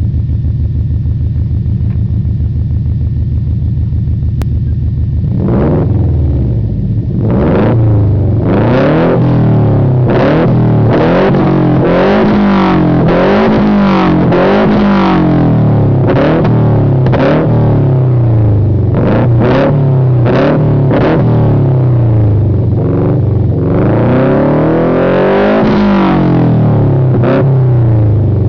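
Ford Mustang Boss 429's 429 cubic-inch V8 idling steadily through its exhaust, then revved again and again in quick blips from about five seconds in, the pitch rising and falling with each. Near the end one longer rev climbs higher before dropping back.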